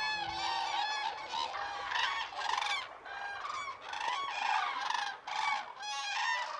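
A flock of common cranes calling together: many overlapping trumpeting calls in a continuous chorus as the birds gather at their roost.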